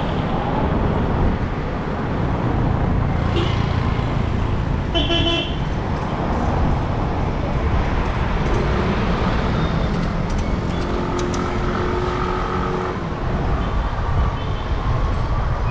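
Street traffic and road rumble heard while riding, with a short vehicle horn toot about five seconds in and a longer horn sounding around eleven to thirteen seconds.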